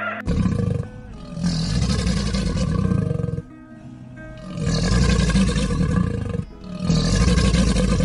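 Crocodile growling in four long, deep bouts, with short pauses between them.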